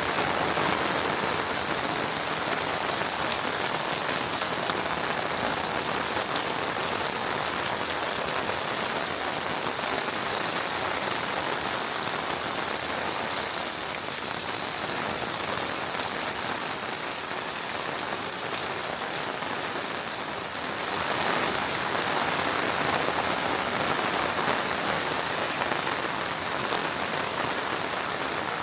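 Steady rain falling, growing a little louder about three-quarters of the way through.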